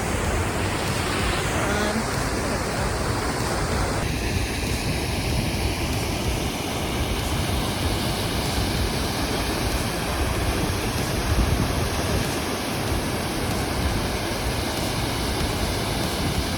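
Steady, dense rushing of a waterfall. The character of the rush shifts abruptly about four seconds in.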